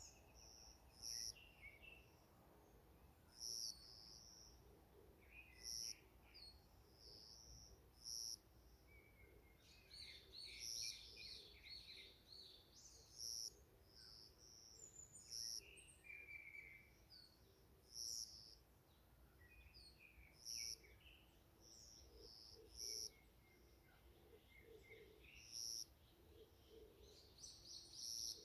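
Forest birds singing faintly. One bird repeats a short, high call about every two and a half seconds, while others chirp between its calls, with a quick trill about ten seconds in.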